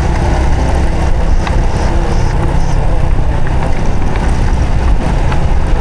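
Honda Supra X 125 FI motorcycle's fuel-injected single-cylinder four-stroke engine running steadily while riding, with a heavy low rumble and no marked change in revs.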